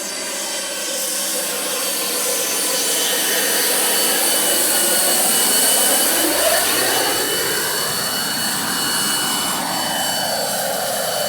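Turbine RC helicopter with a JetCat PHT3 turbine flying, a steady high turbine whine over a rushing hiss. Lower tones glide down and back up in pitch in the middle, loudest about six seconds in.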